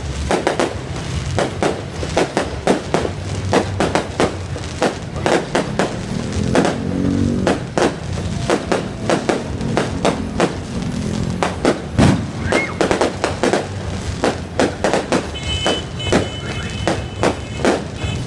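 Fireworks exploding in rapid succession, a dense run of sharp bangs several a second, with music playing underneath.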